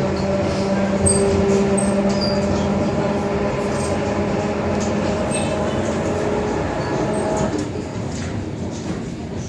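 Inside a carriage of an ER2R electric multiple unit on the move: dense rolling noise with a steady electrical hum of several tones, which drops out about three quarters of the way through as the overall sound eases.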